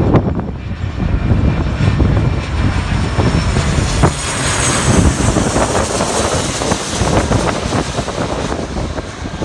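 Boeing 717's twin Rolls-Royce BR715 turbofan jet engines passing by as the airliner lands: a jet rush with a faint high whine that swells toward the middle and fades near the end. Heavy wind noise buffets the microphone.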